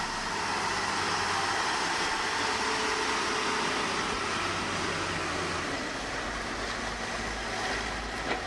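Diesel engine of heavy earthmoving machinery running steadily. Its low hum drops lower about six seconds in.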